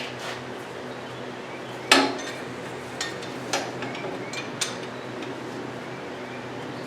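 Metal hand tools clinking and knocking against metal while an engine is being bolted in: one sharp clank about two seconds in, then several lighter clinks.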